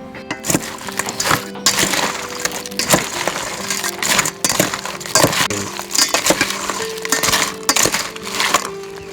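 Repeated clinks and knocks of a utensil against a dish, with scraping, as the crab pickle sauce is mixed, over background music.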